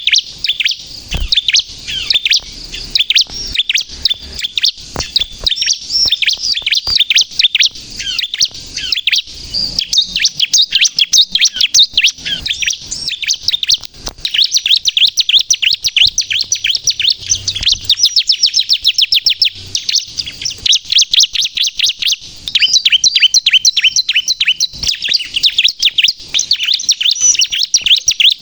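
Bar-winged prinia (ciblek) singing continuously: rapid runs of high, sharp chirps that follow one another with only brief breaks, the energetic 'gacor' song used to lure and provoke other ciblek.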